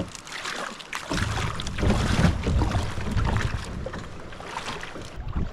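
Water splashing around a kayak on the river, with wind rumbling on the microphone from about a second in.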